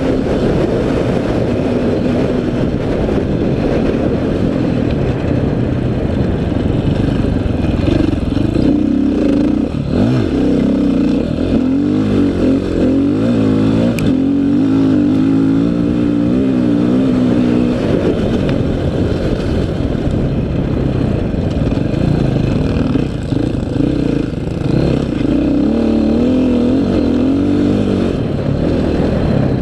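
Dirt bike engine heard from on the bike, revving up and down repeatedly with the throttle as it is ridden over a sandy track.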